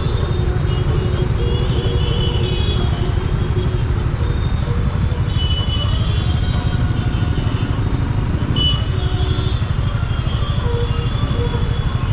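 Steady wind rush on the microphone over a TVS Ntorq 125 scooter's single-cylinder engine running at riding speed in city traffic. A few short high tones cut through now and then.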